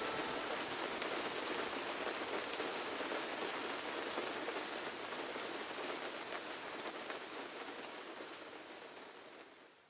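Steady rain falling: an even hiss flecked with scattered drop ticks, fading out gradually until it stops near the end.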